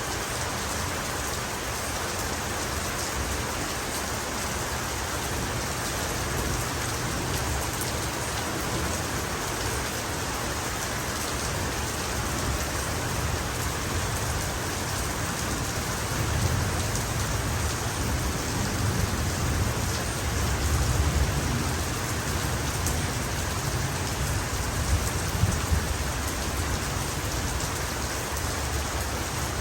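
Steady heavy rain, with a low rolling rumble of thunder coming in about halfway through and lasting several seconds.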